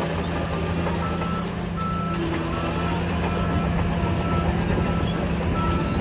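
Heavy diesel earthmoving machine running steadily, with its reversing alarm beeping roughly once a second as it backs up.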